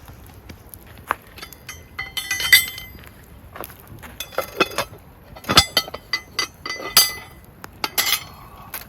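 Clinking and tapping of dishes and eating utensils, in several short clusters of sharp clicks with brief ringing tones.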